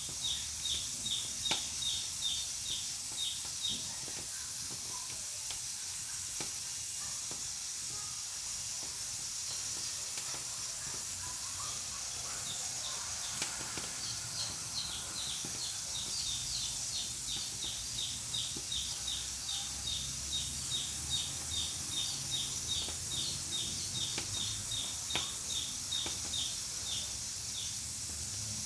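Pressure cooker steadily hissing steam, with a few faint crackles. A bird repeats a short chirp in a quick series for the first few seconds, then again from about halfway on.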